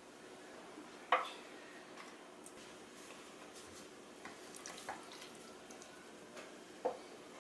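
Quiet kitchen handling: a few light taps and clicks, the sharpest about a second in and others near five and seven seconds, over faint room tone.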